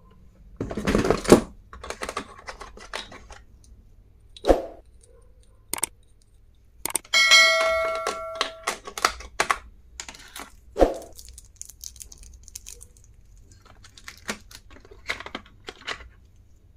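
Stationery items being handled and set down: scattered clicks, knocks and rustling, with one metallic ding about seven seconds in that rings and fades over a second or so.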